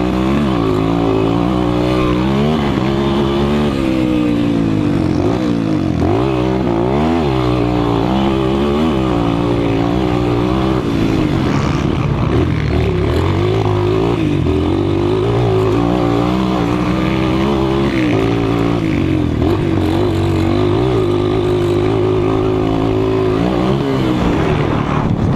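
A 200 cc motocross bike's engine revving up and down again and again, its pitch rising and falling every second or two as the throttle is opened and closed. In the middle and near the end it holds a steadier pitch.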